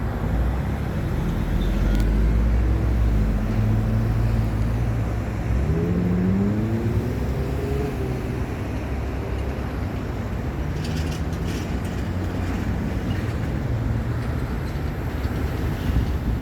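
Steady freeway traffic noise, with one vehicle's engine accelerating, its pitch rising, about six seconds in.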